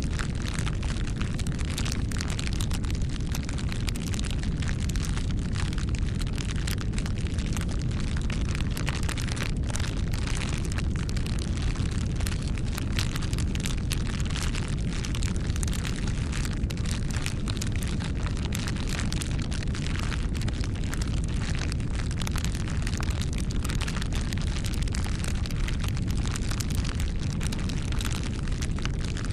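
Wood fire burning: a steady low rushing sound from the flames with many small crackles and snaps throughout.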